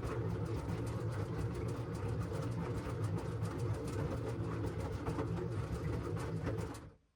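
LG washing machine running, a steady low hum with a dense patter of clicks and rattles, cutting off abruptly near the end.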